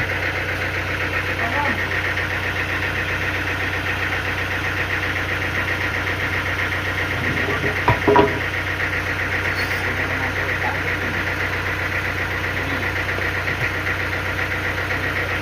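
Sawmill machinery running steadily with an engine-like drone and a fast, even pulsing. There are two knocks about eight seconds in.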